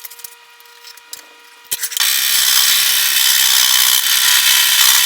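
A scroll saw starts up about two seconds in and runs steadily, loud and even. Before it there is a faint hum and a few light clicks.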